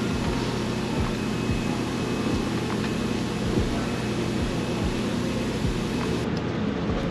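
Steady low mechanical hum with a few faint, scattered low knocks.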